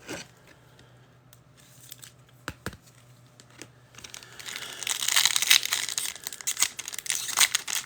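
A foil pack of football trading cards being torn open and its wrapper crinkled, a few light clicks of handling first, then a few seconds of dense crackling rustle.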